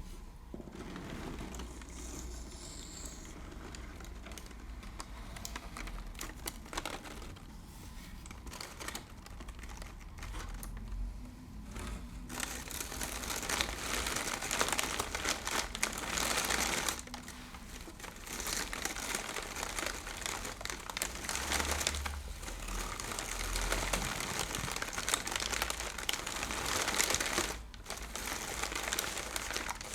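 ASMR crinkling: crinkly material crumpled and rustled by hand close to the microphone. It is sparse and soft for the first dozen seconds, then dense and louder, with two brief pauses.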